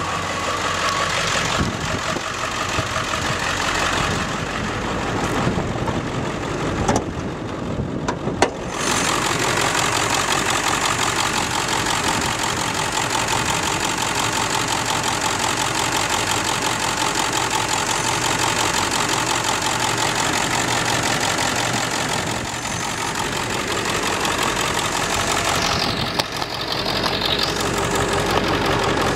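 The 7.3 L Power Stroke V8 turbo-diesel of a 2002 Ford F-350 idling steadily but a little rough, which the owner takes for an injector going bad. A sharp click comes about eight and a half seconds in.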